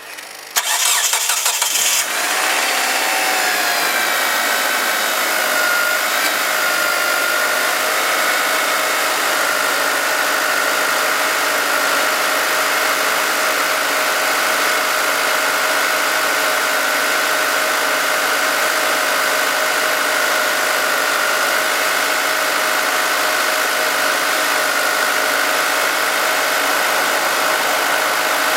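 1995 Mitsubishi Chariot Resort Runner GT's 4G63 turbocharged inline-four cranked by the starter for about a second and a half, firing up on the first try. It then idles steadily, the idle pitch easing down a little over the first few seconds.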